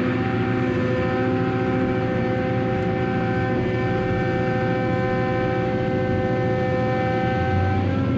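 Heavy machinery running steadily, a loud drone with a constant whine held at several pitches.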